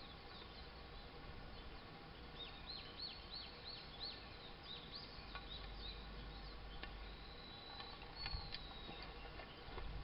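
A small bird sings faintly: a quick run of falling high notes, about three a second, then a longer held high note near the end, over a faint low rumble.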